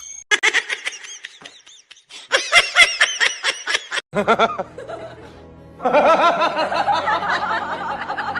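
Laughing in quick, high-pitched bursts through the first half, then music from about four seconds in.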